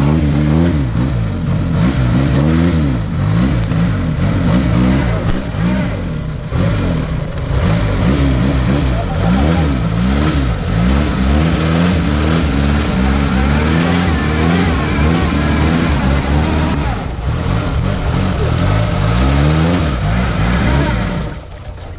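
Off-road vehicle's engine revved hard again and again, its pitch rising and falling every second or so, as the vehicle struggles under load to get free. The engine noise drops away suddenly near the end.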